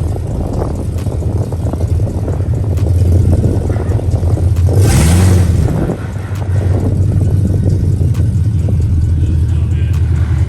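Pickup truck engine running with a steady low rumble. About five seconds in, a loud rushing hiss lasts about a second, with a short rising tone under it.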